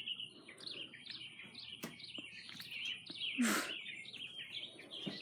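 Small birds chirping over and over in short, quick notes, with one brief louder noisy sound about three and a half seconds in.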